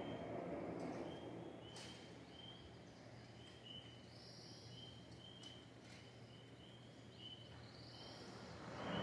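Faint dawn ambience: a bird repeating a short high chirp about twice a second over a low, steady rush of background noise.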